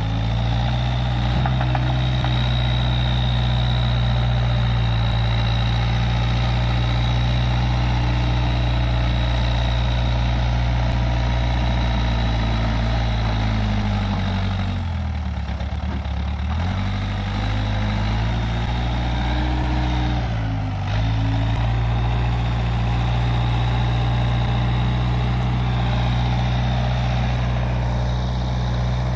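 Case 580G backhoe loader's diesel engine running steadily. Its pitch sags twice, for a couple of seconds about halfway through and briefly a few seconds later, as it is pulled down under load, then recovers.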